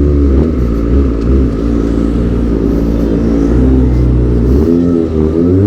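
Kawasaki ZX-25R's 250 cc inline-four running through a Prospeed Black Shark aftermarket exhaust while riding, a steady engine note that dips and climbs again about five seconds in.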